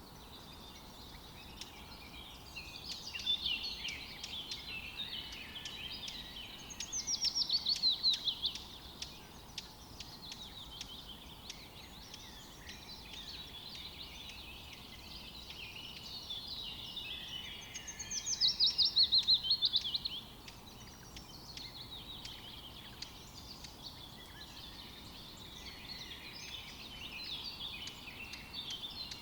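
Several wild birds chirping and singing together. Twice, about ten seconds apart, one bird gives a loud, rapid trill that falls in pitch over a second or two.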